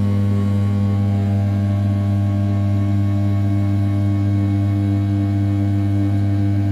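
500 W brushless spindle of an RZ420 desktop CNC mill turning at 6000 rpm while rough-milling the outer profile of an A7075 aluminium block: a loud, steady hum with a strong low pitch and several higher tones stacked above it.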